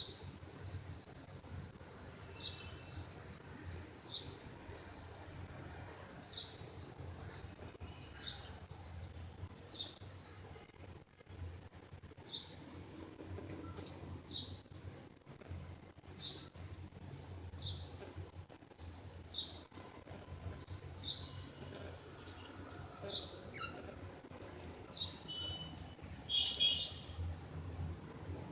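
Pet budgerigars chirping and chattering: many short, high chirps in quick succession, busier towards the end, over a low steady hum.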